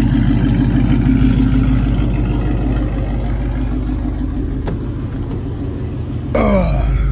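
Car engine running steadily with a low, even drone. Near the end the whole sound slides down in pitch and ends in a sharp click.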